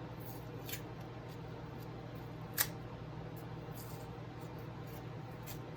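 Scattered small metallic clicks of bent nose pliers working 18-gauge jump rings, with one sharper click about two and a half seconds in, over a steady low hum.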